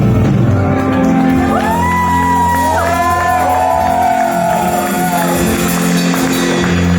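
Live rock band playing loud through a hall PA, with the crowd shouting and whooping. In the middle, high bending notes slide and hold over the band for a few seconds.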